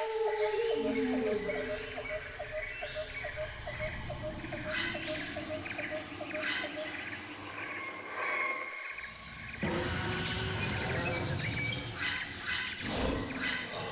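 Jungle ambience of layered wild animal and bird calls, with a quick pulsing call repeating about three times a second through the first half. About nine seconds in it changes abruptly to a denser, noisier chorus with rapid clicking.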